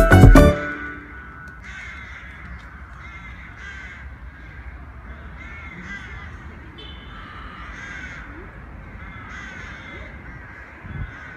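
Birds calling from the trees overhead, a short call about every second over steady outdoor background. Music cuts off in the first half-second.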